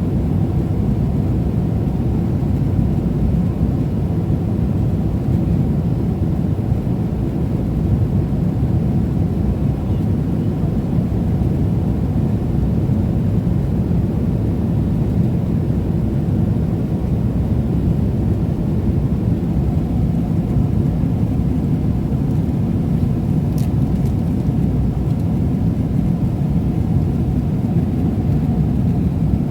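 Steady low rumble of cabin noise inside a Boeing 777-300ER airliner: engine and airflow noise. A single brief click about three-quarters of the way through.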